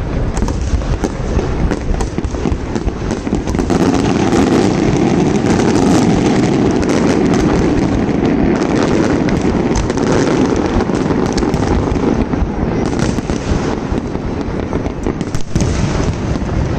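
Fireworks going off in quick succession: many sharp bangs and pops over a continuous crackle, densest in the middle stretch.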